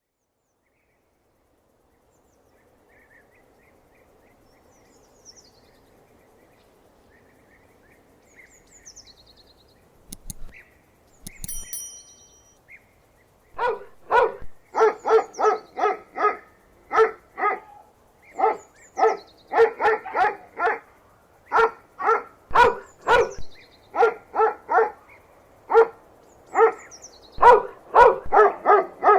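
A dog barking over and over in quick runs of short barks, starting about halfway through, with the sound panned around the head in 8D audio. Before the barking there are only faint chirps and a few sharp clicks.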